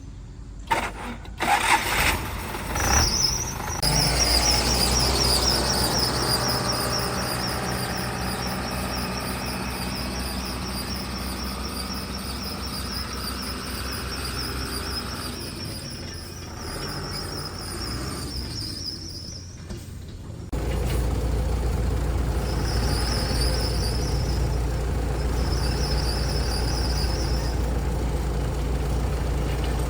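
A motor vehicle engine running, with a high, wavering squeal over it. The sound breaks off about 19 seconds in, and a louder, steadier engine sound takes over a second later, with short bursts of squeal.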